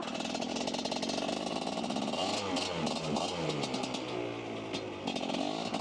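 Dirt bike engine running under way on snow, its pitch rising and falling with the throttle about two seconds in, then holding steady.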